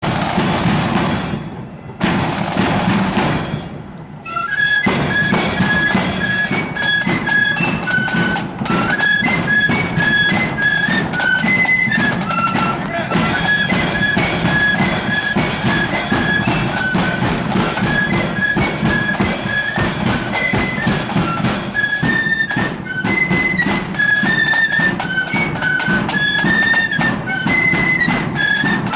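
Marching flute band playing a tune: drums alone for the first few seconds, then the flutes come in with a high, quick melody about four and a half seconds in, over steady drum beats.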